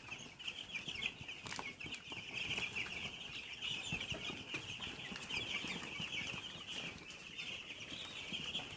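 A flock of brooder chicks peeping all together in a dense, continuous high chatter, with a few brief wing flaps.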